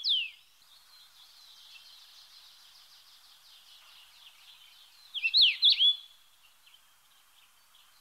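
A bunting gives a short chirp, then a quick cluster of sharp, downward-sweeping chirps about five seconds in, over faint high-pitched twittering in the background.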